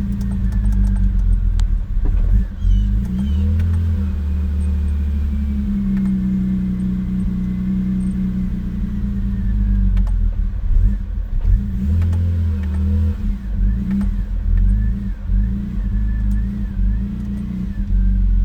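BMW E39 528i's straight-six engine idling roughly, its speed wavering up and down. This is the rough idle that the owner suspects a dirty idle air control valve or a bad O2 sensor is causing.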